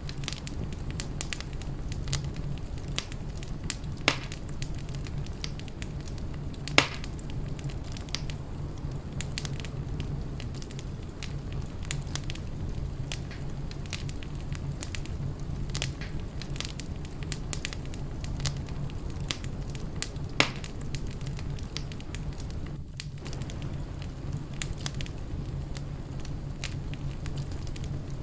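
Fireplace fire burning steadily: a low rumble with continual small crackles, and three louder pops, about 4, 7 and 20 seconds in.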